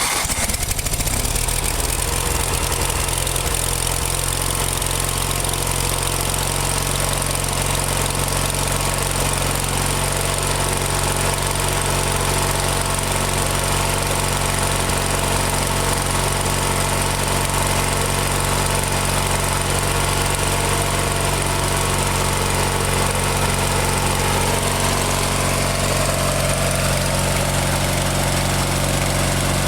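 Briggs & Stratton 17 hp opposed-twin engine of a Murray GT garden tractor catching on a cold start and then running steadily at idle.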